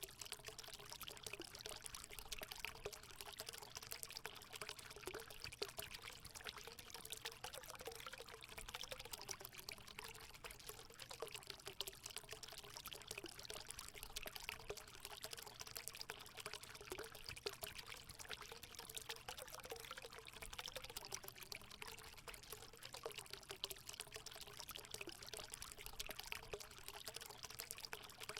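Spring water running steadily into a hot spring pool: a continuous pouring trickle with a faint wavering note running through it.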